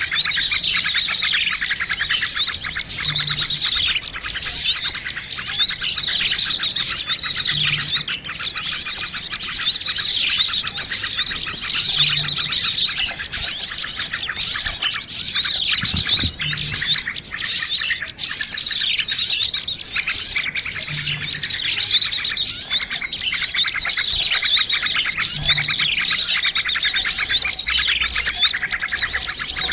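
Dense chorus of many small birds chirping and twittering at once, fast high calls overlapping without a break: a bird-lure recording of noisy small birds, used to draw birds in for trapping. A faint low note recurs about every four or five seconds beneath it.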